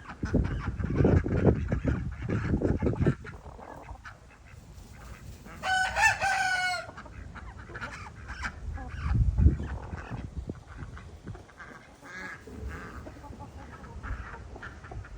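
Chickens in a barn, with a rooster crowing once for about a second near the middle among softer calls from the other birds. A low rumbling noise fills the first few seconds.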